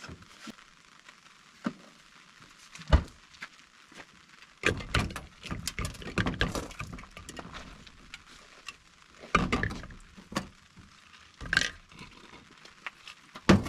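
Irregular knocks, thumps and rustling of objects being handled and moved about, in several short clusters with brief pauses between them.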